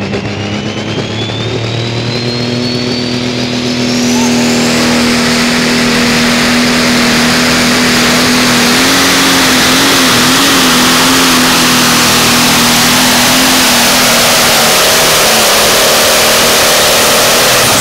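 Pro stock pulling tractor, a John Deere 6030 with a turbocharged diesel, on a pull. It spools up with a high whine climbing in pitch, then runs at full power, very loud and steady, for about thirteen seconds before backing off near the end.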